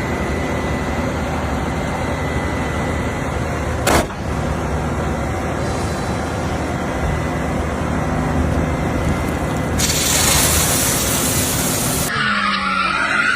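A car engine running steadily, with one sharp bang about four seconds in and a loud rushing noise for about two seconds near the end, which then cuts off suddenly.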